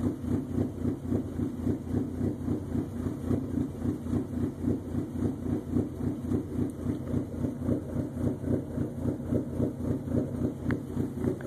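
Dodge SRT-4's turbocharged 2.4-litre inline-four idling, fitted with Crower stage 2 camshafts and heard from inside the cabin. The note rises and falls in an even pulse about three times a second: the lumpy idle of aggressive aftermarket cams.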